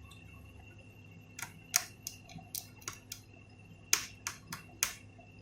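Small sharp clicks and taps of hand tools and wire being handled on an electronics workbench, about ten at irregular intervals from about a second in, over a faint steady high whine.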